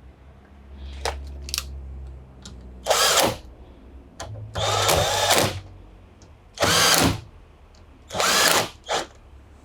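A power drill-driver run in four short bursts of about half a second to a second each, fastening the washing machine's drain pump parts back in place.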